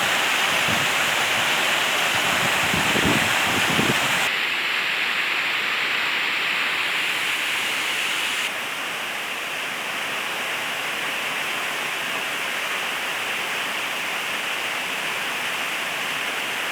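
Waterfall rushing: a steady, dense noise of falling water, with some low thumps in the first four seconds. The sound shifts abruptly in tone about four seconds in and drops slightly in level about eight seconds in.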